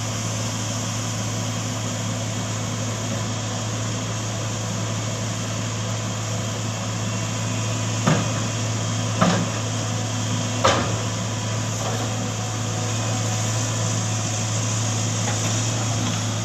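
A vehicle engine running steadily with an even hum, and three sharp knocks a little past halfway, spread over about two and a half seconds.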